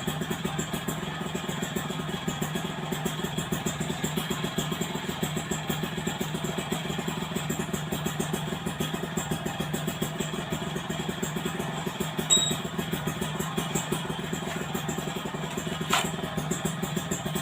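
Yamaha F1ZR two-stroke single idling steadily through an AHM aftermarket underbelly exhaust, a fast, even pulse. A brief high-pitched chirp sounds about twelve seconds in and a sharp click near the end.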